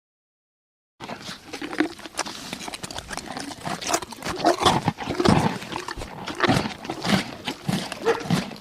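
Animals making many short, low calls, mixed with quick clicks and knocks, starting after about a second of silence.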